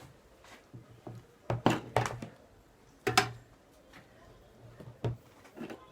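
Several dull thumps and knocks at irregular intervals as a welding machine, its power cord and packaging are handled during unboxing.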